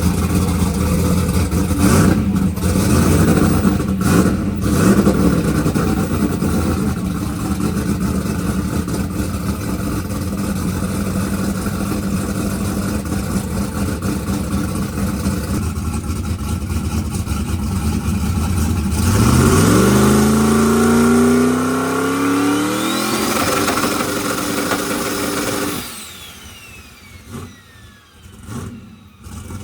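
A drag racing engine runs with a rough, lumpy rumble. Near two-thirds of the way through it revs up hard with a steadily rising pitch for several seconds, then the sound cuts away abruptly to something much quieter.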